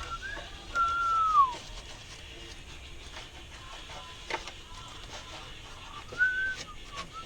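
A person whistling a few clear notes: short notes, then a long note that slides down in pitch about a second in, and another short phrase near the end. A sharp tap comes about four seconds in.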